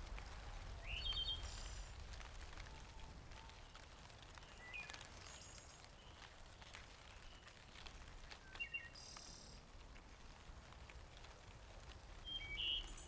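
Faint outdoor ambience with a few short bird chirps and calls spaced several seconds apart.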